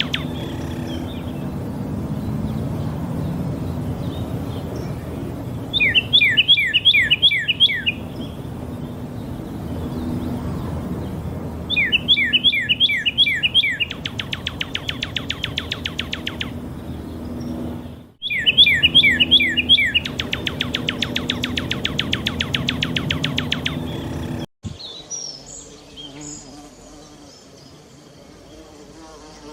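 A songbird sings three short phrases of quick descending whistled notes, about six seconds apart, over a steady fast pulsing buzz. Near the end the sound cuts suddenly to a quieter, different background.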